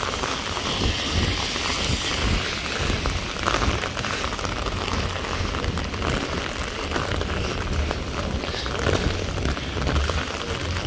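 Heavy rain falling and splashing on surfaces in a steady hiss, with a low rumble underneath.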